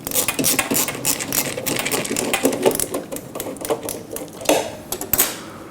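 A screw being driven into the sterilizer's metal cover: a rapid rattling run of clicks for about four and a half seconds, then a couple of sharper knocks near the end.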